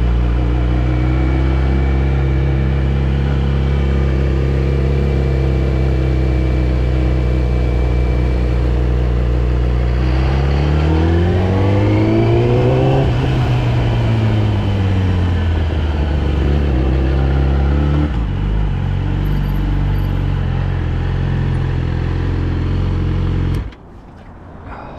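Yamaha R6's inline-four engine idling steadily, then revved once about halfway through, its pitch rising and falling back to idle. Near the end it cuts off suddenly as the engine is switched off.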